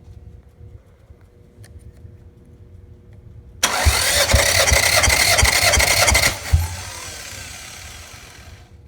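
Toyota 3S-GTE turbo four-cylinder engine being cranked over on its starter motor for a compression test, not firing: a steady starter whine over a rhythmic pulse of compression strokes for about three seconds. Cranking starts partway in and stops with a thump, followed by a hiss that fades out.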